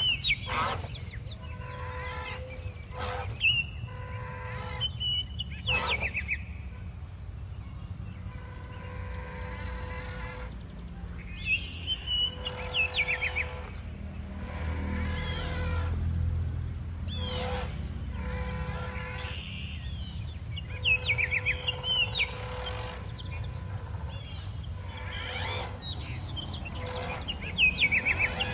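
Birds chirping in short quick trills, again and again, over a steady on-and-off hum and scattered knocks.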